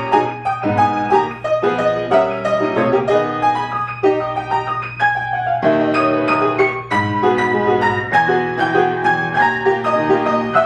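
Piano playing continuously: a busy passage of quick notes over chords, with no pauses. A steady low hum runs underneath.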